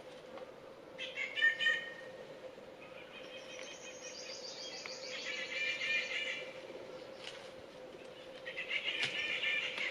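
Birds chirping in three bouts of rapid, chattering calls: about a second in, around the middle, and near the end.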